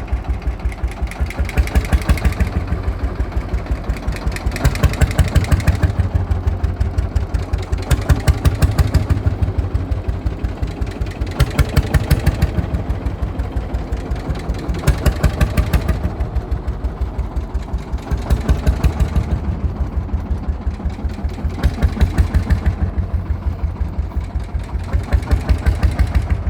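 Lanz Bulldog tractor's single-cylinder two-stroke hot-bulb engine running at a slow idle, a fast, even chuffing beat that swells louder every three seconds or so.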